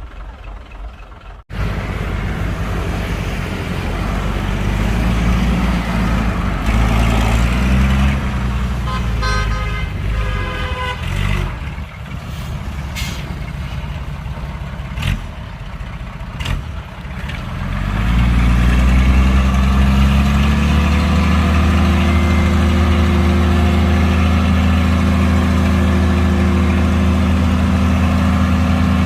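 Heavy diesel engine of construction machinery running hard. It starts suddenly about a second and a half in. There is a short high squeal near the middle and a few sharp knocks. The engine grows louder at about two-thirds of the way and holds a steady, strong note under load.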